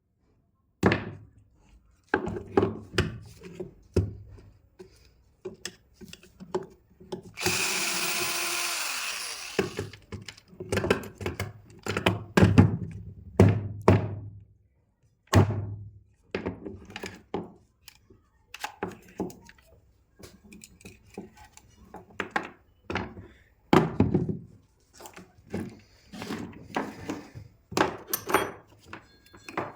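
Irregular knocks and taps of tools and metal parts on a 26 mm rotary hammer drill under repair, with the drill's motor run for about two seconds roughly a quarter of the way in.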